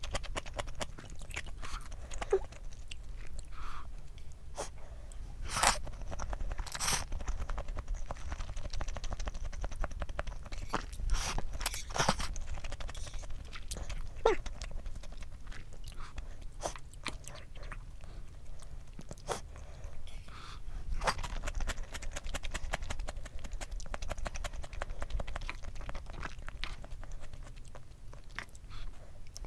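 Close-miked eating sounds: wet chewing of cold spicy noodles and salmon sashimi, broken by scattered sharp clicks and smacks, louder a few times around the middle.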